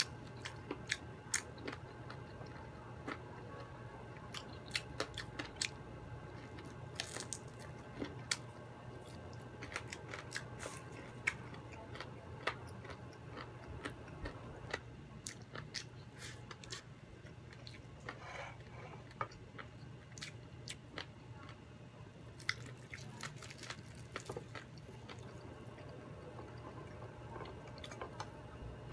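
Close-up chewing and biting of crisp deep-fried chicken, with many sharp crunches and mouth clicks scattered irregularly, over a steady low hum.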